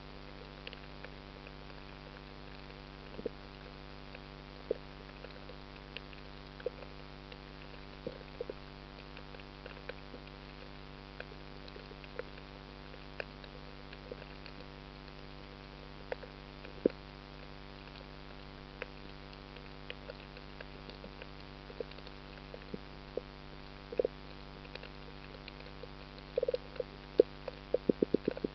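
Steady low hum with scattered short clicks and knocks every second or two, and a quick run of clicks near the end.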